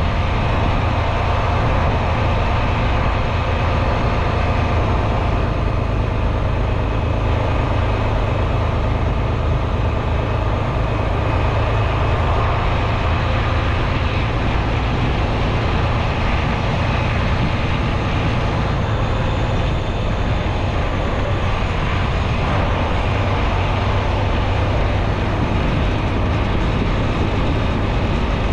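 Semi truck's diesel engine and road noise heard from inside the cab: a steady, unbroken drone.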